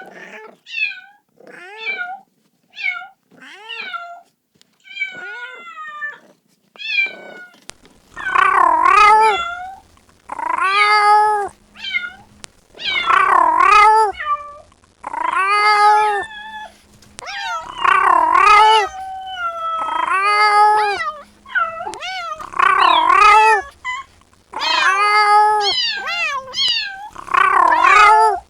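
Kitten meowing repeatedly, calling for its mother. At first come short, quick, high-pitched meows about two a second. From about eight seconds in, they turn into louder, longer meows about every two and a half seconds.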